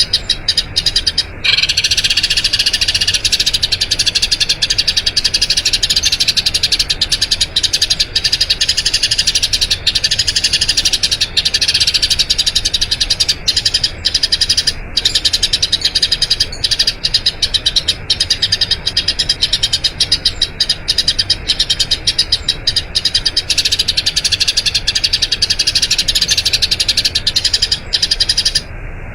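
Eurasian tree sparrow chirping in a fast, unbroken rolling chatter, which cuts off abruptly near the end.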